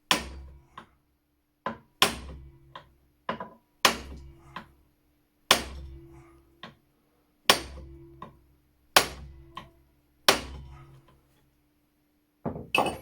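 Hammer blows on a screwdriver set in a seized, rust-frozen screw of an old flintlock shotgun, trying to shock it loose. About seven heavy metallic strikes a second and a half to two seconds apart, each ringing briefly and followed by a lighter tap, with two quick knocks near the end.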